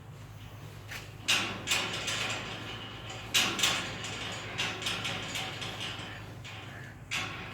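Irregular sharp clanks and rattles, about six in a few seconds, over a steady low hum.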